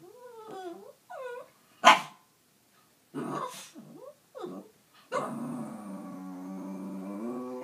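Small pet dog vocalising: wavering whines, one sharp bark about two seconds in, a few short yips, then one long drawn-out moaning howl for the last two and a half seconds.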